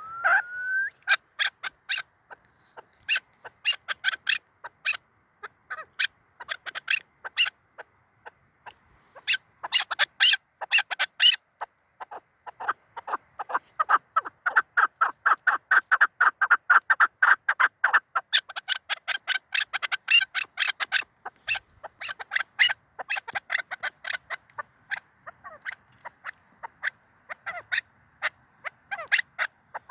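Chukar partridge calling: a rapid series of short, sharp clucking notes, first in separate bursts, then a long unbroken run in the middle, thinning out and growing fainter near the end.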